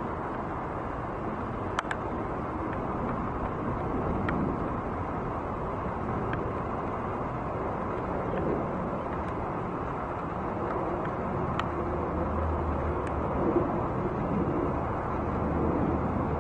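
Steady outdoor rumble of distant engine noise, with a few faint ticks; a low drone grows stronger in the last few seconds.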